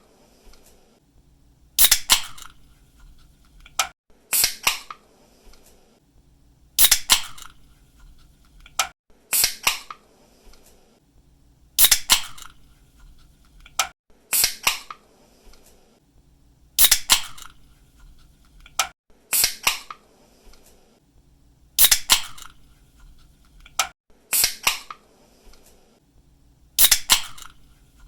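A drink can's pull tab snapping open again and again, about every two and a half seconds: each time a sharp pop followed by a short hiss of escaping carbonation. There are fainter clicks between some of the openings.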